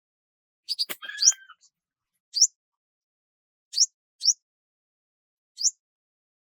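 A bird giving short, high chirps that rise in pitch, about five of them spaced a second or so apart. A click and a brief burst of lower calls come about a second in.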